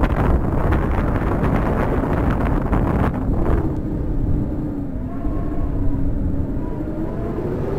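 Strong wind buffeting the microphone: a loud, dense low rumble. About halfway through, a steady, slightly wavering hum joins it.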